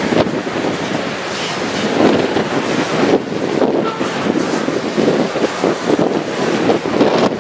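A freight train rolling past, its steel wheels clattering on the rails in a dense, uneven run of clicks, with wind buffeting the microphone.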